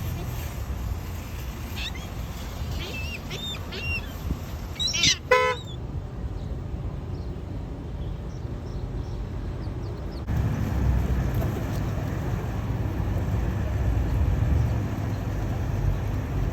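Birds calling over a steady low outdoor rumble: a few short chirping calls in the first few seconds, then one loud harsh call about five seconds in. The rumble gets louder about ten seconds in.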